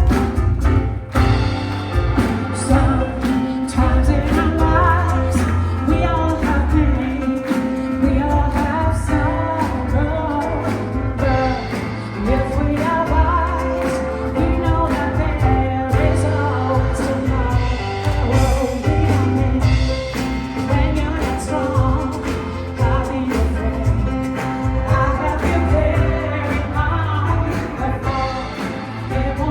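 Live soul performance: a woman singing a wavering melody over instrumental accompaniment with guitar, a strong bass and a regular beat.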